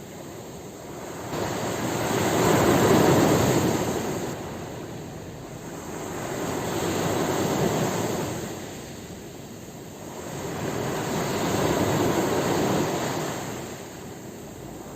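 Ocean surf: three waves surge and wash back, each swelling and fading, about four to five seconds apart.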